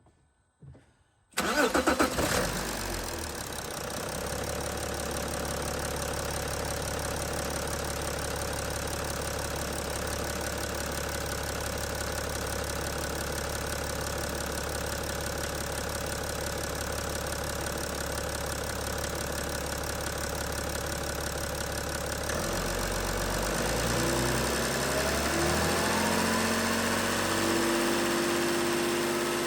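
BMW M57 straight-six diesel engine starting about a second and a half in, then idling steadily. Near the end the sound grows a little louder and rising tones come in over the idle.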